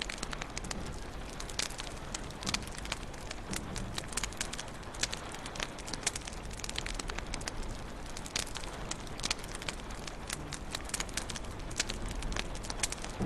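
Wood fire crackling in a fireplace: many sharp, irregular pops and snaps over a steady low hiss.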